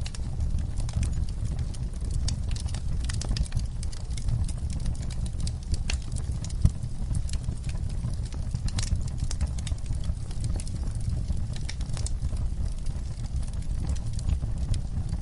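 Wood fire crackling: a steady low rumble from the burning wood with frequent small, sharp crackles and pops scattered irregularly throughout.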